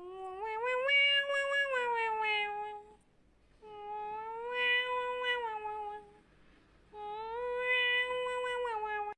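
Cat meowing: three long, drawn-out meows, each held at a fairly steady pitch for two to three seconds and sagging slightly at the end.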